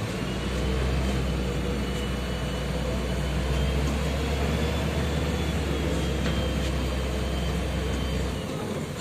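Bus diesel engine running with a steady deep rumble and a faint high whine; the rumble cuts off about eight and a half seconds in.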